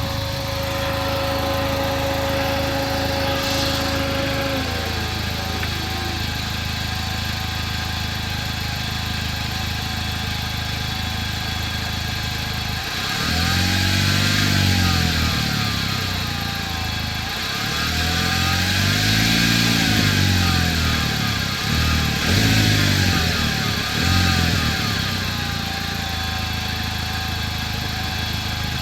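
2009 Chevrolet Cobalt SS turbocharged four-cylinder engine running at idle with a steady whine that slides down in pitch and stops about five seconds in. Later the engine is revved up and back down three times, then settles to idle again.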